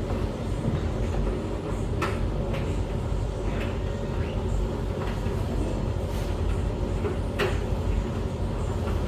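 A tumble dryer and a washing machine running together: a steady low drum rumble, with a few sharp clicks from the tumbling load, one about two seconds in and another near seven and a half seconds.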